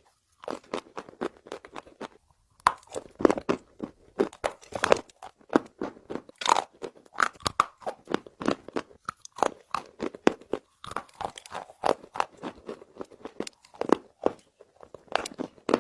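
A person chewing and crunching dry nakumatt clay close to the microphone: a dense run of irregular sharp crackles, with brief pauses near the start and about two seconds in.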